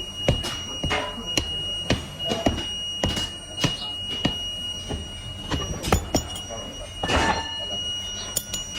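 Metalworking in a workshop: irregular sharp metal knocks and clicks over a steady high-pitched machine whine, with a short hiss about seven seconds in.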